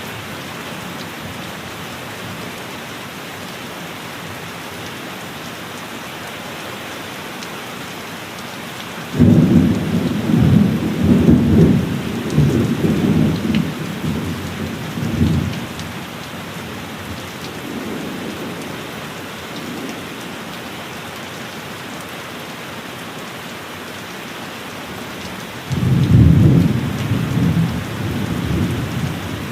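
Thunderstorm: steady heavy rain with two rolls of thunder. The first begins suddenly about a third of the way in and rumbles on in waves for several seconds; the second breaks near the end.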